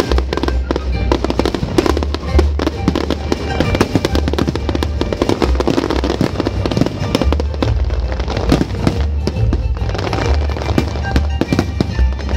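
Fireworks display: aerial shells bursting with many sharp bangs and crackles throughout, over a song with a steady bass played for the pyromusical show.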